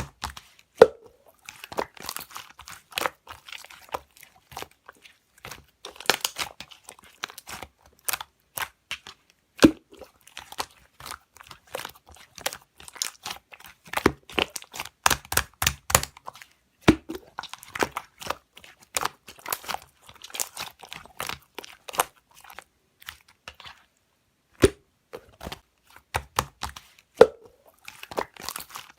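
Thick, chewy slime being squished, poked and stretched by hand, giving sharp clicking air pops and short crackles in uneven runs, with a brief pause a little after the middle.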